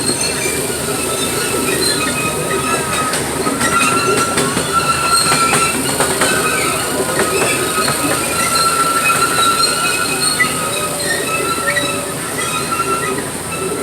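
Park ride train running along its track, its wheels squealing in thin high tones that come and go over a steady rumble, with a few rail clicks partway through.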